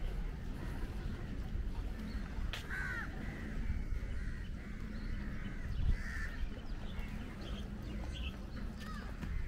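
Birds calling outdoors: a few short, harsh calls, about three seconds in, around six seconds and near the end, over a steady low background rumble.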